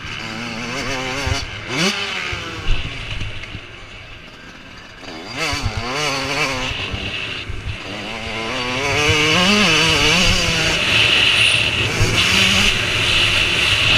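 Motocross bikes racing, their engines revving up and down as the riders work the throttle. The riders fade somewhat a few seconds in, then come back and grow louder through the second half as several bikes close in.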